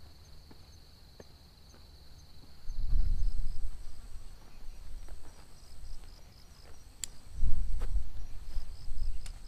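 Insects calling steadily in the countryside: a continuous high whine with rapid pulsed chirps above it. Two stretches of low rumble, about three seconds and seven and a half seconds in, are louder than the insects, and there are a couple of sharp ticks.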